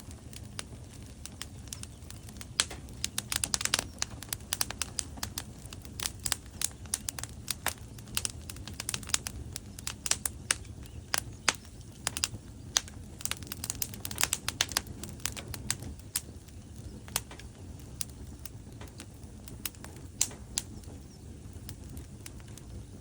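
Logs burning in a fireplace, crackling with many sharp pops and snaps over a low steady rumble of flames. The crackles come thickest in the first two-thirds and thin out near the end.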